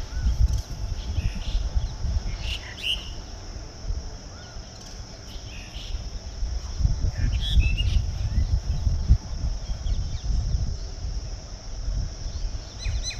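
Many birds chirping and calling in scattered short notes as they gather to roost at dusk, over a steady high-pitched hiss and a low rumble.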